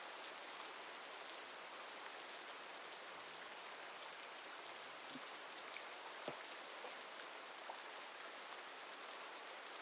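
Steady rain falling, a soft even hiss of rainfall with a few faint individual drop ticks.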